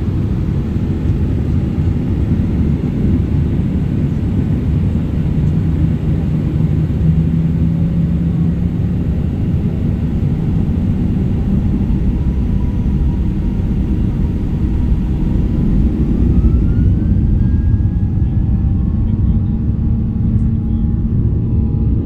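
Airliner taking off: a loud, steady low rumble of jet engines at takeoff power. A rising whine comes in about two-thirds of the way through, and after that the hiss thins and steady engine tones stand out.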